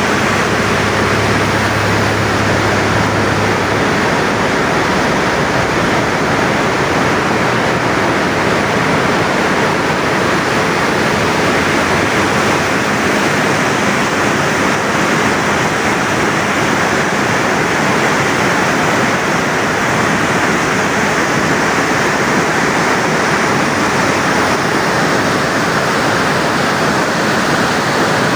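Water discharging through an open dam service spillway: a loud, steady rush of falling, churning water.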